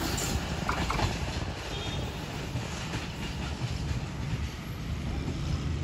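Pakistan Railways passenger train drawing away down the line after passing, the steady rumble and clatter of its coaches' wheels on the rails.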